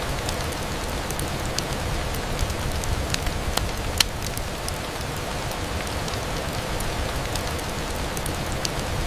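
Steady rain on a window, a continuous even hiss with scattered sharp ticks of drops. The sharpest tick comes about four seconds in.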